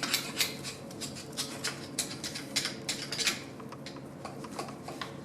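Light, irregular metal clicks and taps, several a second, from the valve body of a 700R4 automatic transmission and its small parts being handled, over a faint steady hum.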